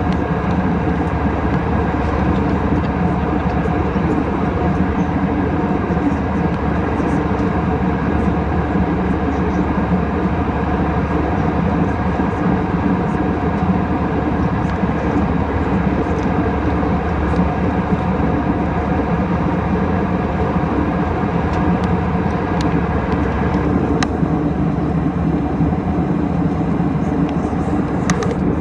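Steady cabin noise of an Airbus A320 in flight: engine and airflow roar with a faint hum, with a few faint clicks and rattles from the cabin.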